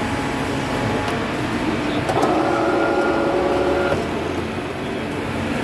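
Cold-forming tube stamping and rolling machine running steadily, with a pitched hum that comes in about two seconds in and stops about two seconds later, as during a working stroke.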